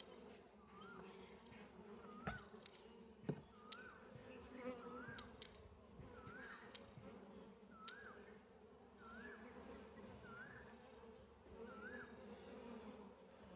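A honeybee colony buzzing steadily from an opened hive. A bird repeats a short rising-and-falling chirp about once a second, with a few sharp clicks in between.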